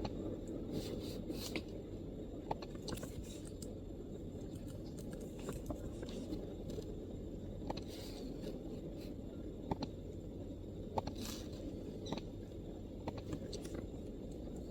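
MacBook laptop keyboard typed on in irregular, scattered keystrokes, light clicks spaced unevenly with short pauses, over a steady low background rumble.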